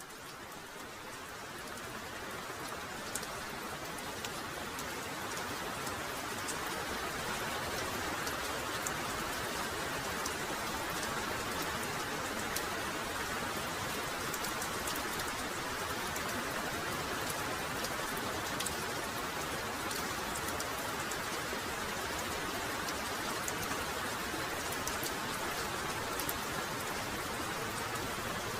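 Heavy rain falling steadily, with scattered sharp drop hits close by. It swells up from quiet over the first several seconds, then holds level.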